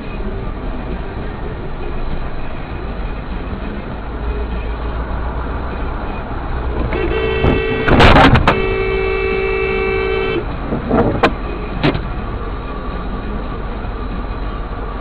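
Steady vehicle engine and road rumble. About seven seconds in, a vehicle horn sounds and is held for about three and a half seconds. A burst of loud knocks, the loudest sound here, comes near the horn's middle, and a few short knocks follow soon after.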